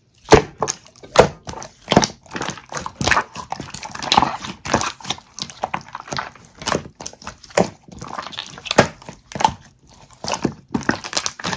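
Slime being squished and played with, making irregular sharp squelching pops and clicks, several a second with louder ones about once a second.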